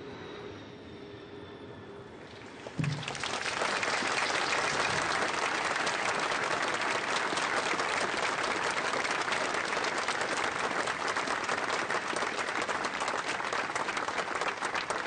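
Audience clapping, starting about three seconds in and going on steadily, dense and sustained, in welcome as the honorees arrive.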